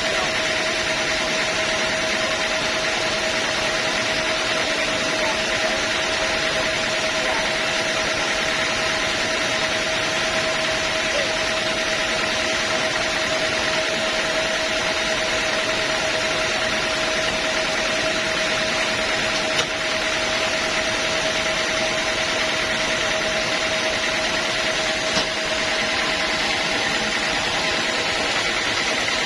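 Sawmill bandsaw machinery running steadily, a constant mechanical whine with a steady hum, unchanged throughout.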